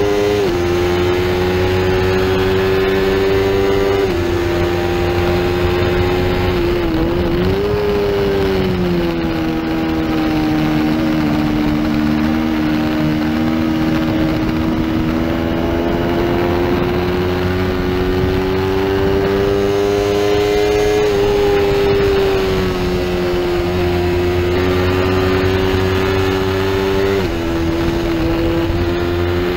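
Small-displacement race motorcycle's engine running at high revs under load, heard from onboard over wind rush. The pitch drops sharply with upshifts about half a second and four seconds in. It dips and recovers around seven seconds as the bike slows for a corner, climbs slowly through the middle, then drops with further upshifts near 21 and 27 seconds.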